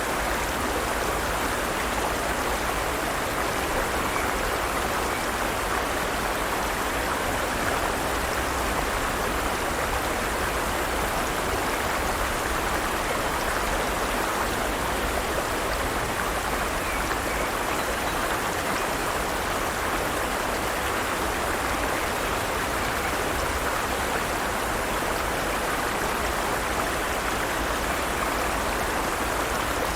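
Forest stream flowing steadily: an even rush of running water, with no distinct splashes.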